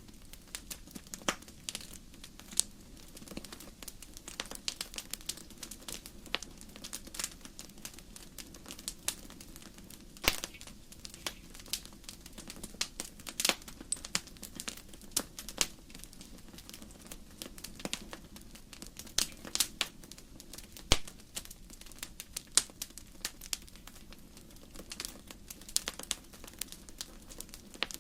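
Wood fire crackling in a fireplace: irregular sharp pops and snaps of burning logs over a low steady rumble of the flames.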